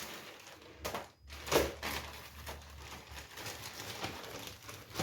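Hands handling kitchen items and plastic bags: faint rustling with a couple of short knocks, one about a second in and a louder one about a second and a half in.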